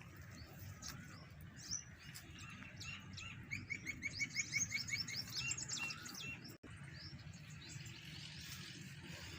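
Birds chirping outdoors. Near the middle, one bird gives a fast run of repeated chirps, about five a second, for a couple of seconds. A low steady background rumble runs underneath.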